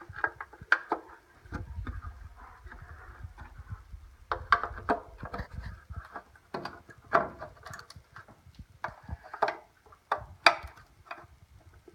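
Irregular clicks and knocks of a plastic taillight assembly and its bulb sockets being handled and fitted, with a low rumble in the first half.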